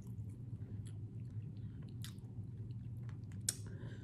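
A person chewing rotisserie chicken: soft, scattered wet mouth clicks and smacks, with one sharper click about three and a half seconds in, over a low steady hum.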